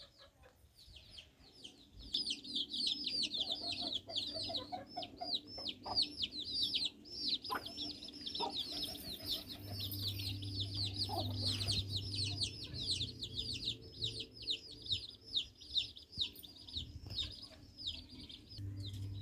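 Many small birds chirping continuously: a dense run of quick, downward-sliding chirps. A low hum comes in underneath partway through.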